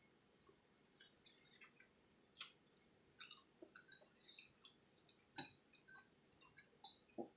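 Faint, scattered wet mouth clicks and smacks of a person chewing food close to the microphone, against near silence.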